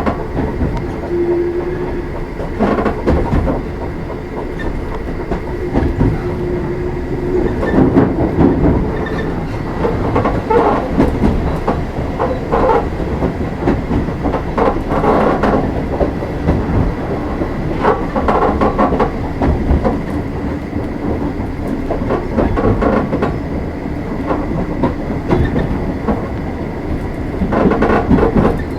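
Oigawa Railway 16000 series electric train, a former Kintetsu limited express car, running, heard from inside the car. A steady rumble of wheels on rail, with clattering over rail joints every few seconds.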